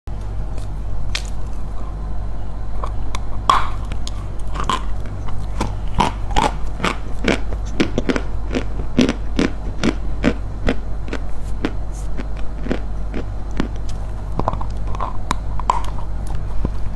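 Dry chalk being bitten and chewed close to the microphone: many sharp, irregular crunches, coming thickest in the middle, over a steady low hum.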